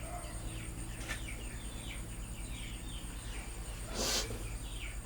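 Birds chirping over and over in short falling chirps. A brief burst of noise comes about four seconds in.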